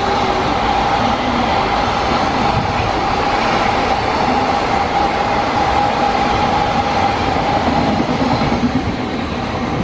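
Freight train passing at close range, its wagons rolling over the rails. A steady high tone sounds over the rolling noise and fades out near the end, as the train's sound begins to ease.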